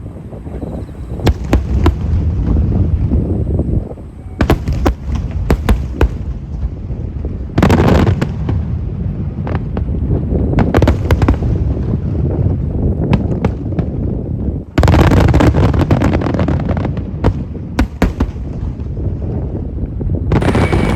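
Aerial fireworks display: shells bursting in a string of booms and sharp cracks, with sudden big volleys about four, eight and fifteen seconds in and crackle and rumble between them.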